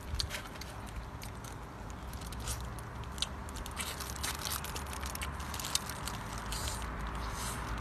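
A person eating: chewing, with scattered small wet clicks and smacks over a steady low background hum.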